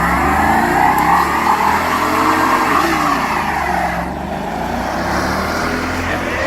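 Car engine revving hard under acceleration, its pitch rising and falling, with a loud rushing exhaust noise and a slight dip in level about four seconds in.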